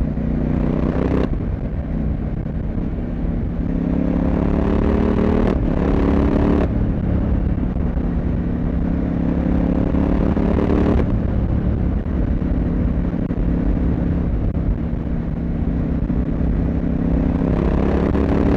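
CFMoto 800MT parallel-twin motorcycle engine and exhaust running under way, its note changing about a second in, around six and a half seconds in and around eleven seconds in.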